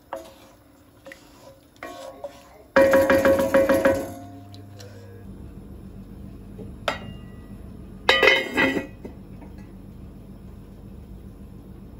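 Dishes and kitchen utensils clattering with a ringing clink in two bursts, about three seconds in and again about eight seconds in, with a single sharp click between. A steady low hum comes in about five seconds in.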